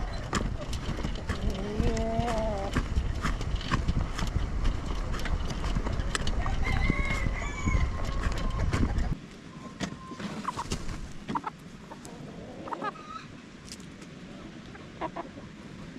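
Free-range chickens clucking and calling, with a wavering call about two seconds in and a higher call a few seconds later. A low rumble with many clicks runs under the first half and cuts off suddenly about nine seconds in, leaving quieter clucks and clicks.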